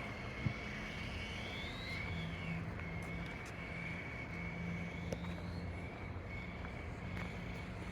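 Small electric autonomous race cars running laps: a steady high motor whine with occasional rising-and-falling sweeps as they speed up and slow down.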